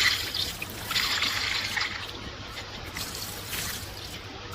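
Liquid hissing and trickling in swells of about a second, three times.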